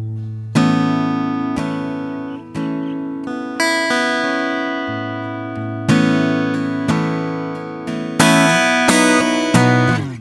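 Solo acoustic guitar playing slow improvised chords and single notes, each struck about once a second and left to ring out.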